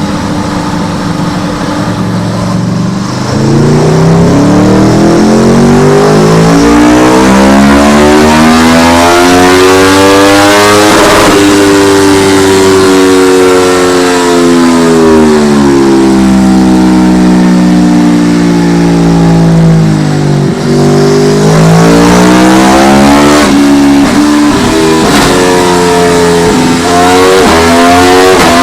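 Aprilia Tuono V4 1100's V4 engine on a dyno during a full-throttle gear run. It climbs steadily in pitch for about eight seconds, then winds down for several seconds. About twenty seconds in, it revs up again in steps, with brief breaks.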